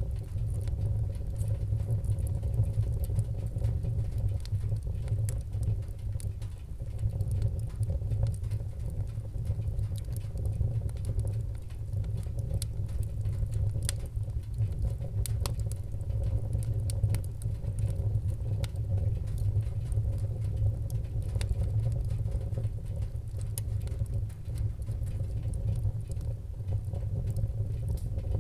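Wood fire burning in a fireplace: a steady low rumble of flame with many small scattered crackles and pops.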